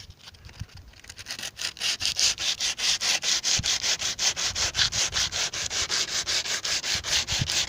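Sandpaper rubbed by hand over the rusty sheet-metal rain gutter of a 1948 Buick Special in quick, even back-and-forth strokes, several a second, starting about a second in. It is hand sanding to smooth out the filed metal before rust-sealing paint.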